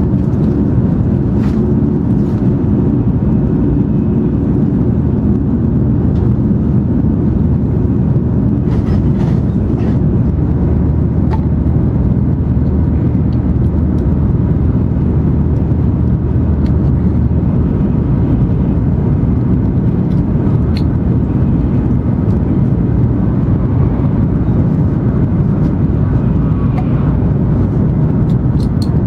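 N700 series Shinkansen running at high speed, heard from inside the passenger cabin: a loud, steady low rumble of rolling and rushing air noise, with a few faint ticks.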